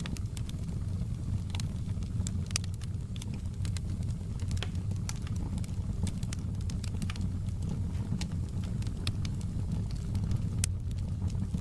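Wood fire burning in a fireplace, crackling: irregular sharp pops and snaps scattered over a steady low rumble of the flames.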